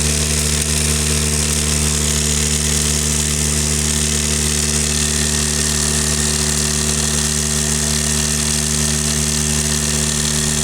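Backcountry F2 Tornado electric drywasher running steadily: a constant motor hum with a steady high hiss over it, as dry gravelly material is worked through the machine.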